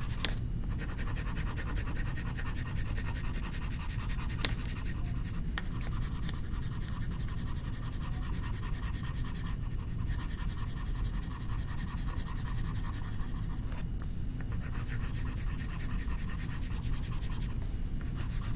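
Light blue being rubbed lightly over paper in quick back-and-forth strokes, shading a sky, as a steady scratchy rubbing. It breaks off briefly a few times, with one sharp tick about four and a half seconds in.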